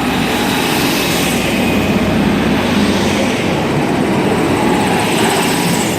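Pair of Class 156 diesel multiple units pulling away, a steady, loud rumble of diesel engines and wheels on the rails.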